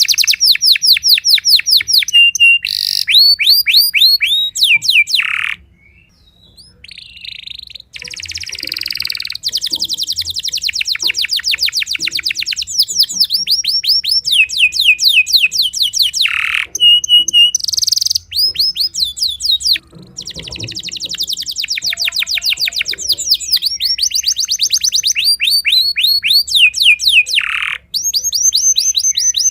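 Timbrado canary singing: long rolls of rapid, repeated downward-sweeping notes, phrase after phrase, with a brief break about six seconds in.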